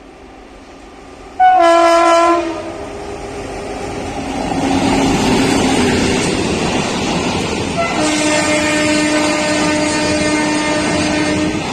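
WAP7 electric locomotive sounding its horn: a short loud blast about a second in, then a long blast of nearly four seconds from about eight seconds in. Between the two horns the noise of the approaching train builds up.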